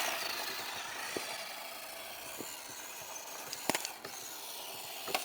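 A small radio-controlled drift truck (WPL D12, brushed motor) driving and sliding, with its tyres hissing steadily over a hard surface. A few sharp clicks and ticks come through, the clearest about three and a half seconds in.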